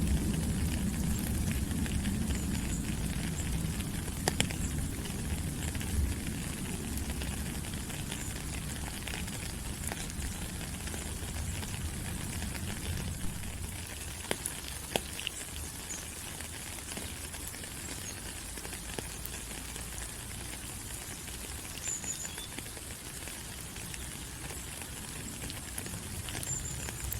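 Tropical rainforest rain falling steadily on leaves: a dense even hiss dotted with sharp drip ticks, its low rumble easing over the first half.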